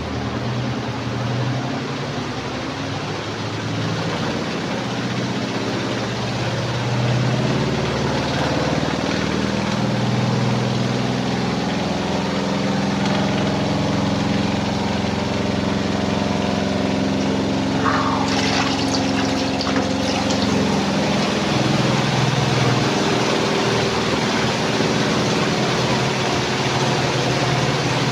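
Twin-tub washing machine running: a steady motor hum with water churning in the tub. A brief sharper sound comes about two thirds of the way in.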